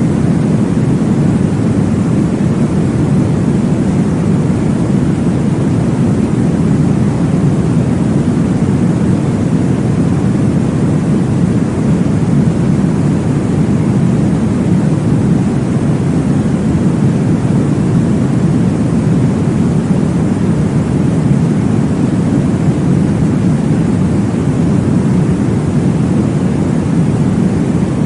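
Steady, deep rushing noise for baby sleep, weighted to the low end like brown noise: the whoosh of a womb-sound track. It holds an even level throughout, with no pulses or changes.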